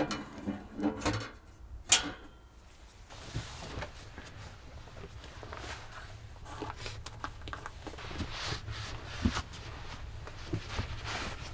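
A few sharp knocks in the first two seconds, then faint rustling and small clicks over a low steady rumble, as of things being handled in a small enclosed room.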